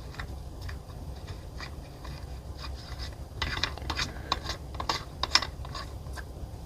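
Scattered light clicks and scraping of small metal parts being handled, busiest from about halfway through: shim washers being fitted under an air rifle's threaded bottle adapter to clock it straight, over a steady low hum.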